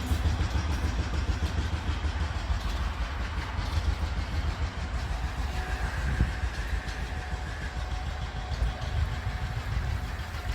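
An engine running steadily at idle: a low, fluttering rumble.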